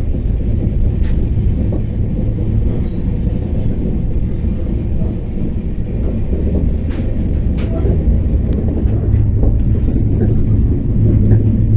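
Train running on the rails: a steady low rumble with a few short, sharp clicks scattered through it.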